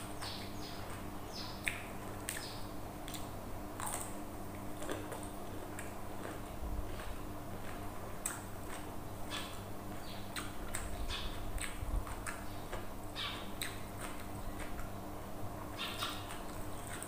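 Chewing and lip-smacking of someone eating rice and side dishes by hand: many short, sharp wet clicks at irregular intervals over a low steady hum.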